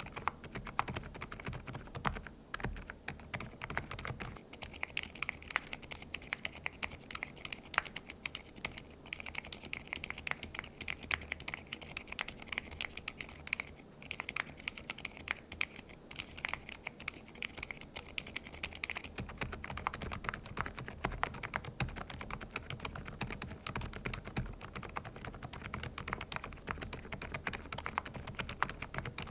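Continuous typing on mechanical keyboards fitted with Osume Little Ghost silent linear switches: a fast run of soft, muted keystrokes. The character of the typing changes about four seconds in and again about two-thirds of the way through.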